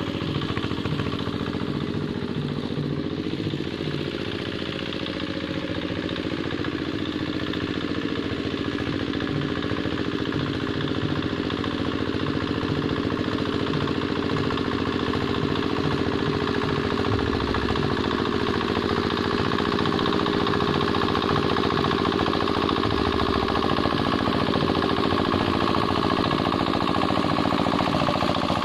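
Hand tractor's single-cylinder diesel engine running steadily with a fast, even chug, working a wet rice paddy. It grows slightly louder toward the end.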